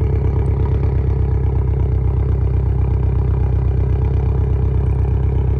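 Car engine idling loudly and steadily through its exhaust, with an even, rapid pulse.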